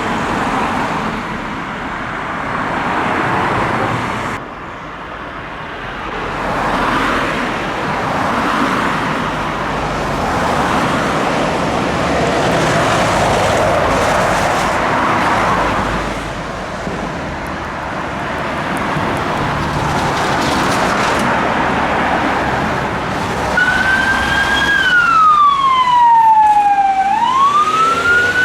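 Steady traffic noise for most of the stretch, then near the end a police van's siren wailing, sweeping slowly down in pitch and back up.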